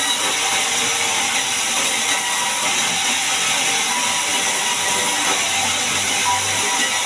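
Band sawmill running steadily through a large mahogany log: a continuous hissing saw noise with a faint high whine, unchanging throughout.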